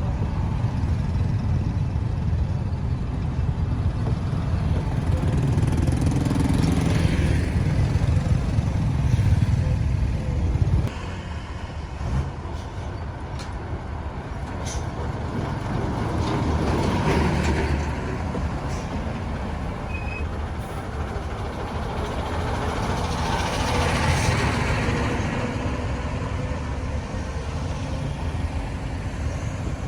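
Busy road traffic: a continuous rumble of vehicle engines and tyres, with vehicles passing close about three times. The rumble drops abruptly about a third of the way through.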